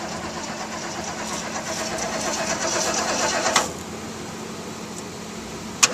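1980 Ford F-150's starter cranking the engine over without it catching, on a battery being boosted from another truck that the owner takes for dead, too weak to give enough spark. The cranking stops with a click about three and a half seconds in and starts again after another click near the end.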